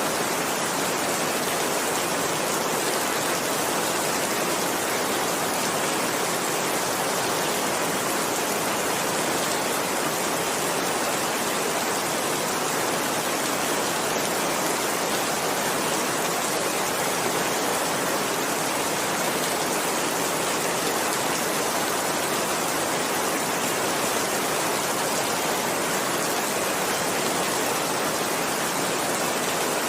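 Heavy rain falling steadily, an even hiss with no breaks or thunderclaps.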